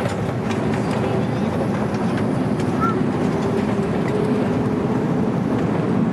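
Steady rumble and engine hum inside the cabin of an Airbus A310 rolling on the ground just after landing. A brief faint chirp sounds about three seconds in.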